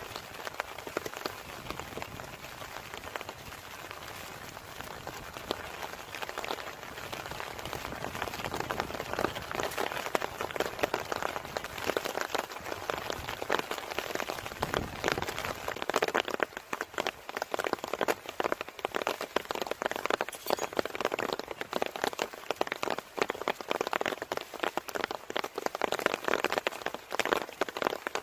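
Heavy rain falling, a dense patter of drops striking a surface, growing louder over the first several seconds.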